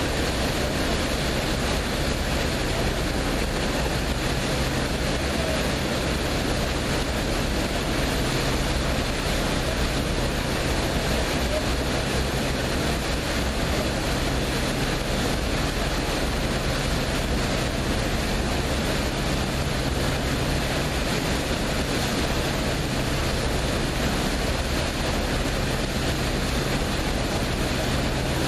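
Passenger boat under way: a steady low engine hum over an even rush of water and wind noise.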